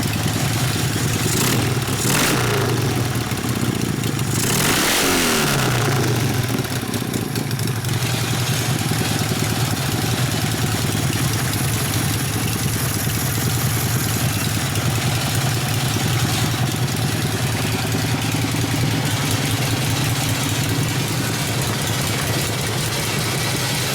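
Freshly rebuilt 1972 Harley-Davidson Ironhead Sportster V-twin running: it is revved twice in the first several seconds, pitch rising and falling each time, then settles to a steady idle.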